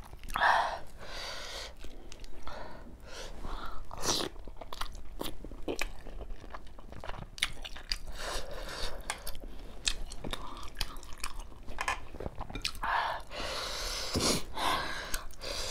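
Close-up chewing and lip-smacking of someone eating steamed chicken momos (dumplings), with many short, sharp mouth clicks.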